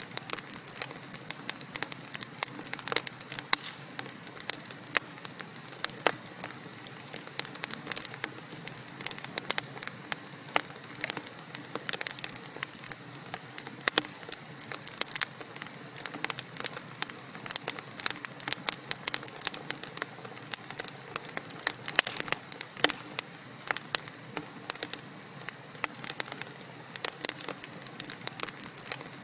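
Wood fire of burning logs in a fireplace crackling: many quick irregular pops and snaps over a steady hiss.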